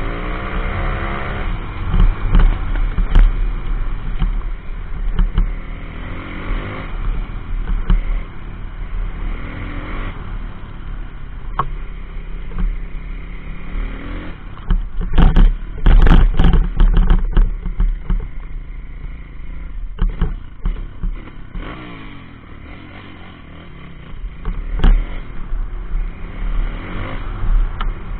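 A 140cc pit bike's single-cylinder four-stroke engine running under way, its pitch rising and falling as the throttle is worked. There is a cluster of loud thumps and clatter about halfway through.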